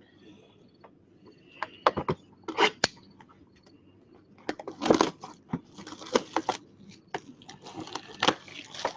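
Plastic wrapping on a trading-card box being torn and crinkled as it is opened, in irregular crackles and short tearing bursts that come thicker in the second half.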